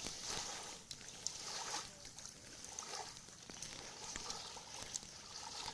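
Wood campfire crackling, with many scattered sharp pops over a soft steady hiss.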